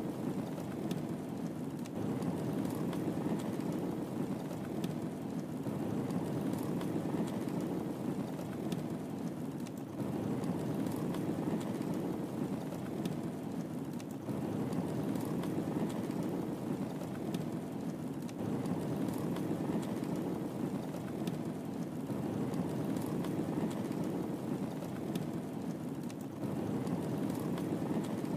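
Wood fire burning in a fireplace: a steady low rumble with small, scattered crackles and pops.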